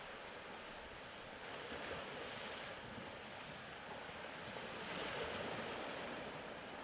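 Faint ocean surf, washing in and swelling gently twice.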